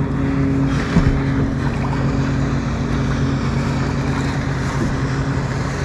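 Boat engine running at a steady speed, with wind and water noise, and a brief knock about a second in.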